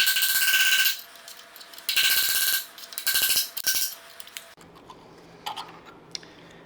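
Hammer blows ringing on metal, three main strikes in the first four seconds with a few lighter taps after, driving the old brass pilot bushing out of the crankshaft with bread packed behind it.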